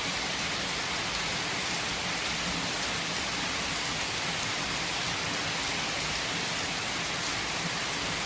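Steady rain falling, an even hiss with faint drop ticks.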